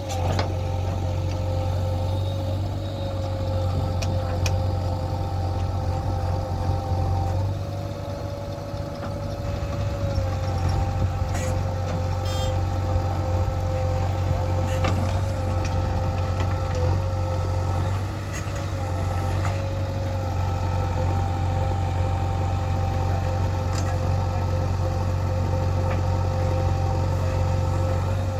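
Diesel engine of heavy farm or earth-moving machinery running steadily, with a thin steady whine over the low drone. It eases off briefly twice, once about a third of the way in and again about two thirds in.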